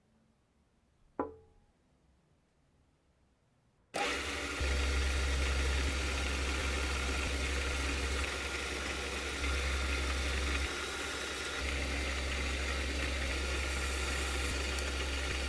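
A single click about a second in, then an electric saw's motor starts abruptly about four seconds in and runs steadily and loudly with a strong low hum.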